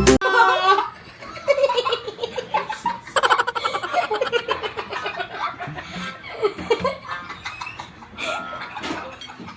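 Several people chattering and laughing, a child's high voice among them.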